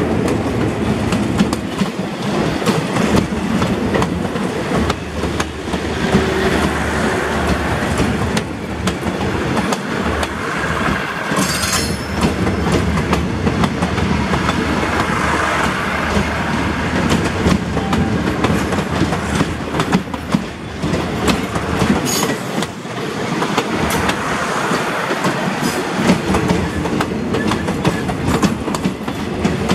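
State Railway of Thailand passenger coaches rolling past at close range, wheels clicking and knocking over rail joints over a steady low rumble. A brief high wheel squeal cuts in about twelve seconds in, and again faintly near the twenty-two-second mark.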